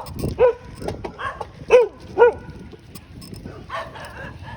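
A dog barking, about four short barks in the first couple of seconds, then quieter.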